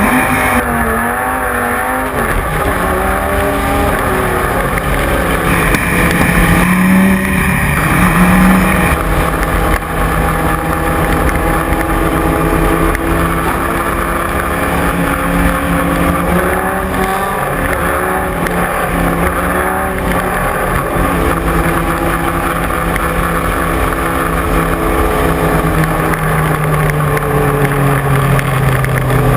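Dodge Viper GT3's V10 engine at racing speed, its revs rising and falling with shifts and braking.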